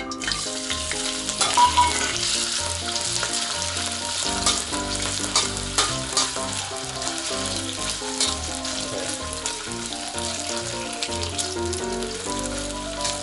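Sliced potatoes frying in hot oil in a stainless steel wok, a steady sizzle, with a metal spatula scraping and clinking against the pan as they are stirred.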